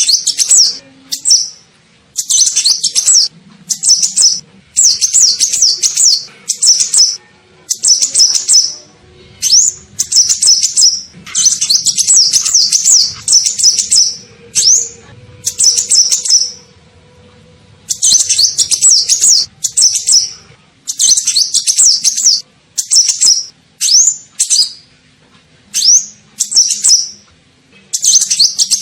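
High, fast twittering song of the 'kolibri ninja' sunbird, played as a lure call: repeated bursts of rapid chirps, each half a second to two seconds long, with short pauses between.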